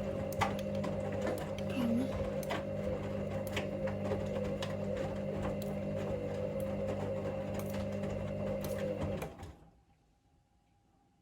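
Hoover Link washing machine in its main wash: the drum motor hums steadily with scattered ticks, then stops abruptly about nine seconds in and the machine goes near silent as the drum pauses in its tumble.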